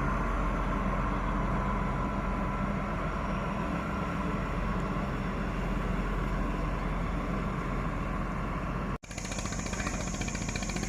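D11H diesel locomotive running steadily with a low engine rumble. About nine seconds in, the sound cuts out for an instant, and after that a high steady whine joins the rumble.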